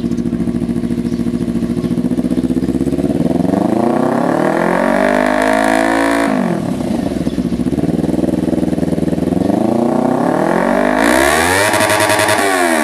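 Kawasaki Ninja 300's parallel-twin engine through an aftermarket exhaust, idling and then revved twice while stationary: the pitch climbs for a few seconds, drops back sharply just after the middle, then climbs and falls again near the end.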